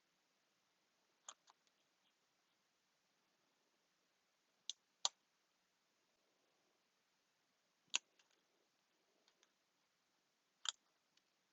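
Scissors snipping now and then, a few sharp single snips several seconds apart over near silence.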